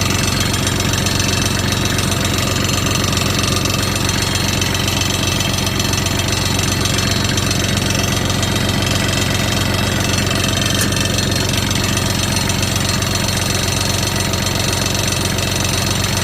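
Kubota L3130 tractor's diesel engine idling steadily.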